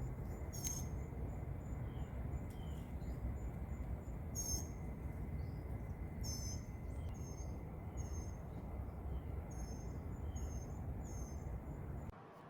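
Small songbirds chirping back and forth: short, high chirps repeated about once a second or so, with a few softer, lower down-slurred notes between them, over a faint steady background noise.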